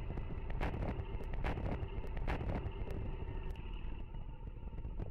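KTM RC 125's single-cylinder engine running steadily while riding, with heavy wind noise on the microphone.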